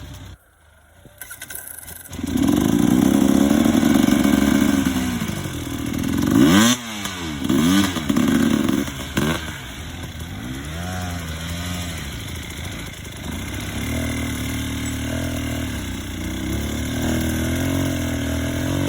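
Enduro motorcycle engine running: nearly silent for about the first two seconds, then its revs rise and fall, with several quick rev blips near the middle and steadier running toward the end.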